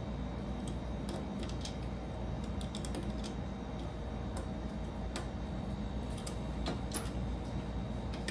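Small plastic Lego pieces clicking and tapping as they are handled and pressed together: irregular light clicks, a few sharper ones, over a steady low hum.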